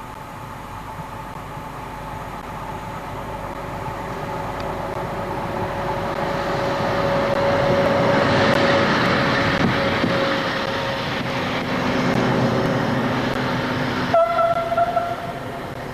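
FS D345 diesel locomotive approaching and passing, its engine sound growing to a peak about halfway through and then falling away, with a short horn blast near the end.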